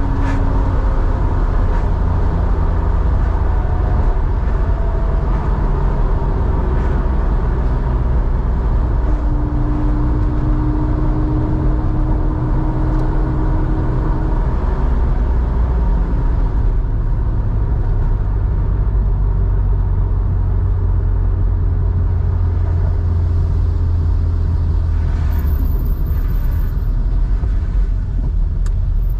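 1987 Porsche 911's air-cooled 3.4-litre flat-six running at a steady, even pace through a Scart two-in-one-out muffler, a deep continuous rumble as the car cruises.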